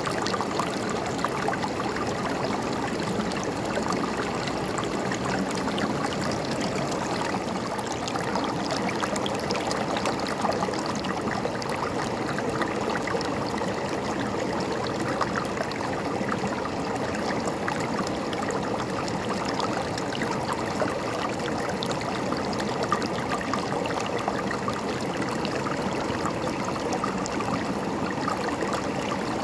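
River water flowing and gurgling over rocks, a steady splashing rush.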